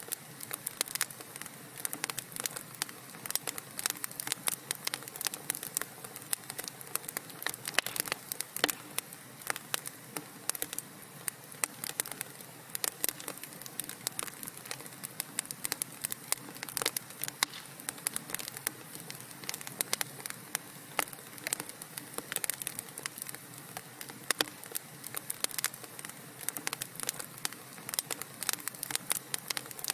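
Wood fire burning in a fireplace: dense, irregular crackling and popping of burning logs over a soft steady hiss.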